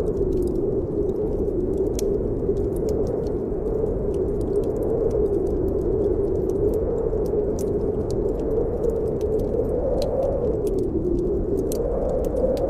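Snowstorm wind howling steadily, its pitch slowly rising and falling, over the scattered sharp pops and crackles of a wood fire.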